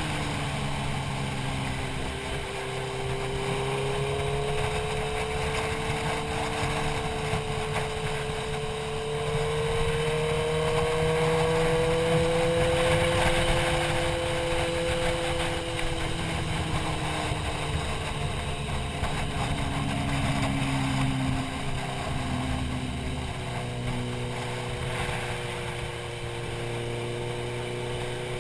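Motorcycle engine running while riding, its pitch drifting slowly up and down with throttle, under steady wind rush on the helmet-mounted camera.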